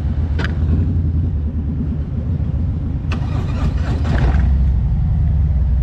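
Motorcycle engines idling with a steady low rumble that grows louder about four seconds in.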